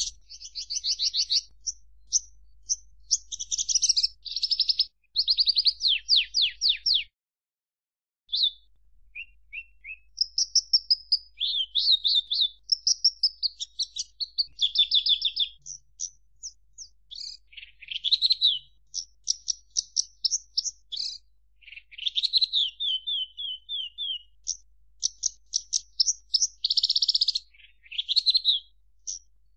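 Javan bush lark (branjangan) singing a fast, varied song of high chirps, rattling trills and slurred notes, with a short break about seven seconds in.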